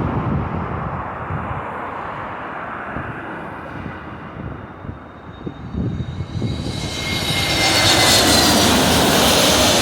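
Airbus A321neo jet airliner coming in to land: a low rumble for the first half, then its turbofan engines swell into a loud roar with a high whine over the last three seconds as it comes near.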